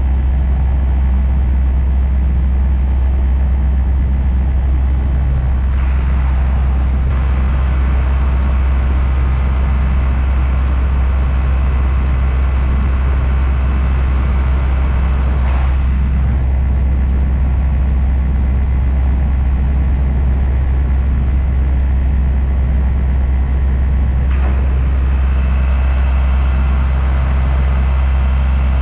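Paramotor engine running steadily at constant power, a loud low drone that hardly changes through the whole stretch.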